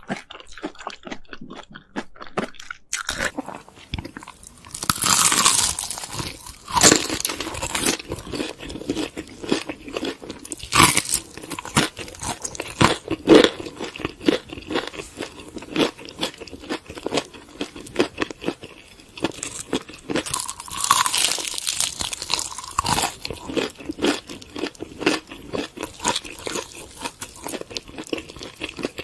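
Close-up biting and chewing of crunchy Korean spicy chicken: a steady run of crisp crunches and chewing clicks, with heavier crunching bites about five, seven and twenty-one seconds in.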